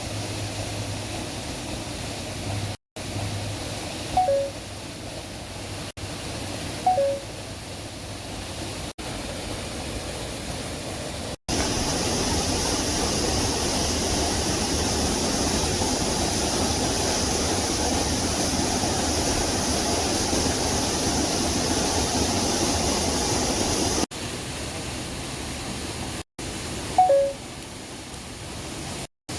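Steady rushing of flowing stream water, louder and brighter through the middle stretch, breaking off abruptly at several cuts. A short, loud two-note falling call sounds three times over it.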